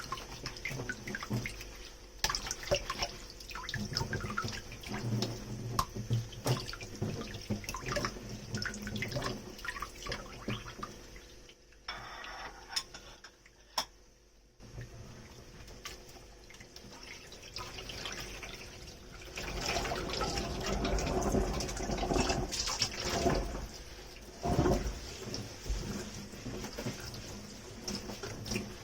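Dishes being washed by hand at a kitchen sink: water splashing and dripping, with light clinks of tableware. About two-thirds of the way in the water gets fuller and louder, like a tap running.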